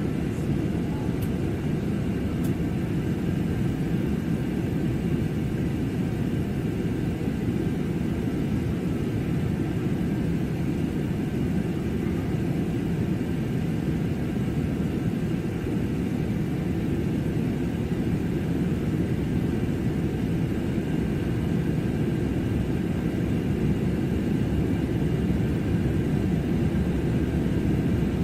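Airliner cabin noise in cruise: a steady, even rumble of engine and airflow, heaviest in the low end, with a few faint steady tones above it.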